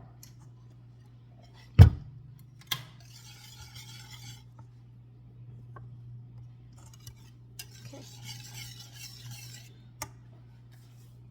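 Forks scraping and clinking against a dish as cooked chicken is shredded, in two short stretches, after a sharp knock about two seconds in. A steady low hum runs underneath.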